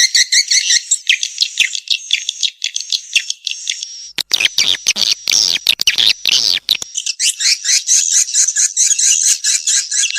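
Swiftlet calls, as played from a nest-luring recording: a dense, fast train of high chirps. Roughly in the middle, for about three seconds, the chirps give way to a rougher run of rapid clicks and rasps before the chirping resumes.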